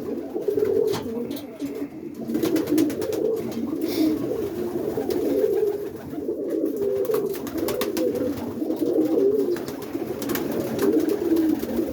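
Several roller pigeons cooing continuously, their low warbling coos overlapping into a steady chorus, with scattered sharp clicks among them.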